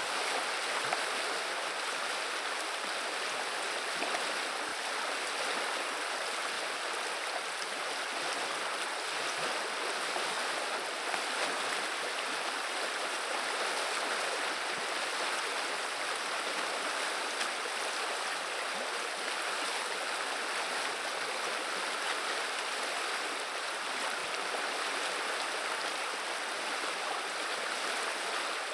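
River water flowing: a steady rushing, babbling sound of running water.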